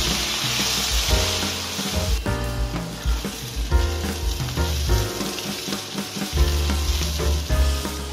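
Zucchini sticks and garlic cloves sizzling in olive oil in a hot nonstick pan as a spatula stirs them. The sizzle is strongest for about the first two seconds, then softer, over background music.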